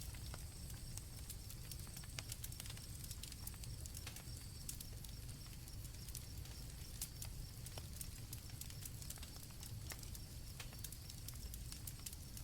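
Campfire crackling: scattered sharp pops and snaps over a low steady rumble of burning wood, with crickets chirping steadily and high in the background, fading somewhat after a few seconds.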